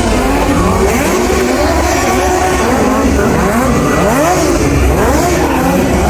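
Several engines revving up and down at once, their pitch rising and falling in quick overlapping sweeps over a low rumble.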